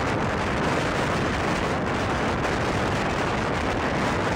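Steady rush of wind and wheel-on-rail rumble from an express passenger coach running fast, heard at its open door with wind buffeting the microphone.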